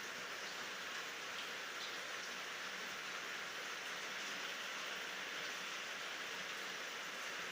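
Steady rain falling, an even hiss of drops with a few faint individual drop ticks, and no thunder.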